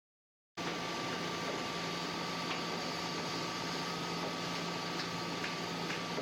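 A steady mechanical hum with a constant whine, starting abruptly about half a second in, with a few faint light ticks.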